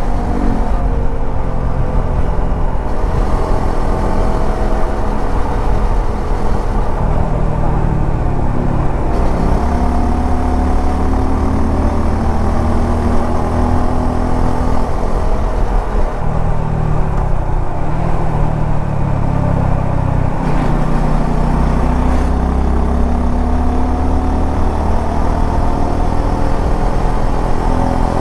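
Suzuki V-Strom 250 SX's 249 cc single-cylinder engine running under way, its pitch rising and falling again and again with the throttle and gear changes, over a steady low rumble of wind and road noise.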